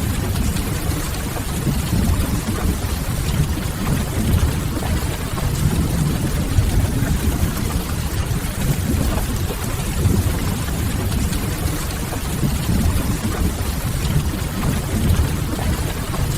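Steady rain ambience: a constant hiss of falling rain over a low, even rumble, with no distinct events.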